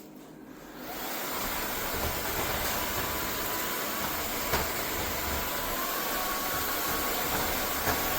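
Narwal S20 Pro cordless wet-dry vacuum mop's motor starting up about a second in and running steadily with a faint whine, with a sharp click partway through.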